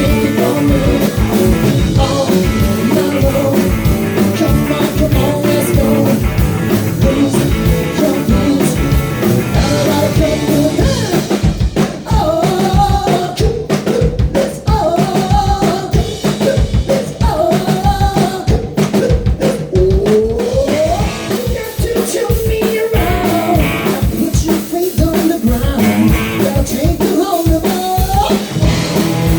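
Live rock band playing a song: a drum kit keeps a steady beat under bass, guitar and singing, with a lead line sliding up and down in pitch through the middle.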